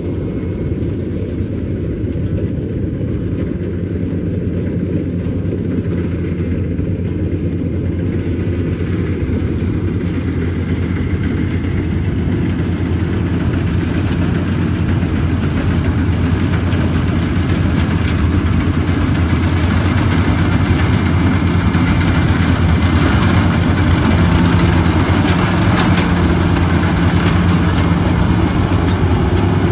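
Diesel engine and threshing machinery of a World Star WS7.0 rubber-tracked combine harvester (Changchai 88 hp diesel) running steadily while harvesting paddy. The hum grows gradually louder, with more rattle and hiss in the second half.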